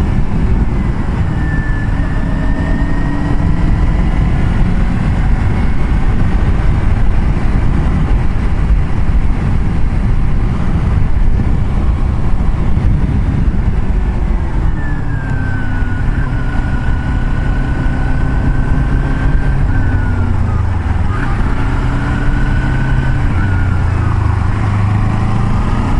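Motor vehicle on the move: a steady, loud rush of wind and road noise with the engine running under it. The engine's pitch falls and rises a couple of times over the second half, as with gear changes or changing speed.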